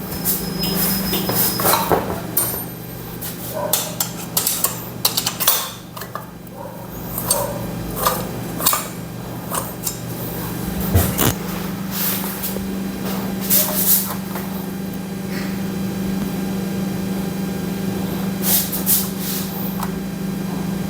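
Irregular metallic clinks and knocks of hand tools and engine parts as a long bolt is fitted into a motorcycle engine's cylinder during assembly, over a steady low hum.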